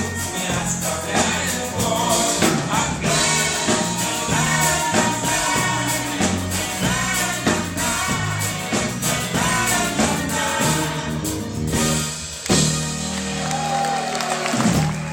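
Live band with several voices singing a song. After a short break about twelve seconds in, the song closes on a final held note.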